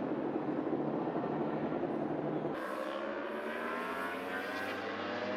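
Racing motorcycle engine on track. About two and a half seconds in, a dense, even engine noise cuts abruptly to a single engine accelerating with its pitch rising steadily.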